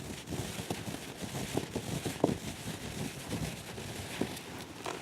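Irregular soft taps, scratches and rustles of hands handling a faux-leather cat carrier, with one sharper tap a little past two seconds in.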